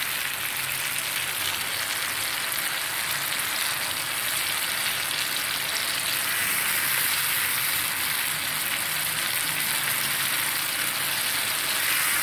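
Ground tomato, garlic and ginger paste sizzling steadily in hot oil in a frying pan, a dense crackling hiss as the masala fries down until the oil separates.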